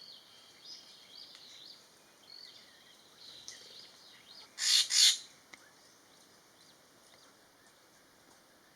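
Wild birds singing faintly in high, warbling phrases. About halfway through come two loud, harsh, noisy bursts close together.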